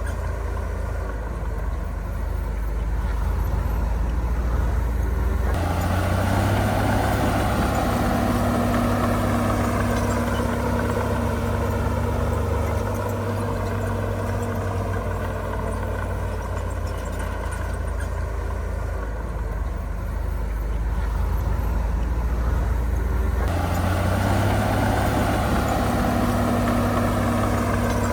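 Heavy earthmoving machine's diesel engine running. It rises suddenly to higher revs about five seconds in, eases back briefly near the end, then rises again.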